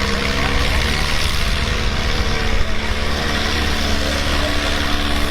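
International Harvester pulling tractor's engine running loud and steady.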